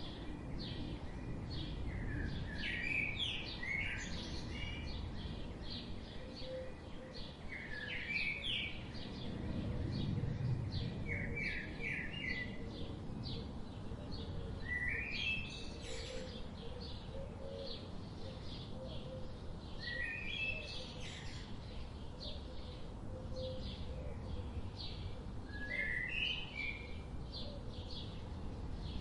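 Several birds chirping. One bird repeats a short song phrase every few seconds over a constant scatter of quick, higher chirps, with a steady low rumble underneath.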